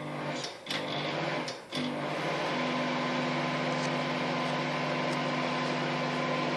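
Microwave oven running with a steady hum, after a few sharp clicks in the first two seconds.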